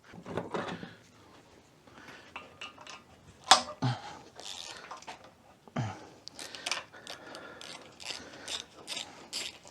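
Wrench and metal parts working at the rocker arm assembly of an air-cooled VW Beetle engine: scattered metallic clicks and clinks, the sharpest about three and a half seconds in.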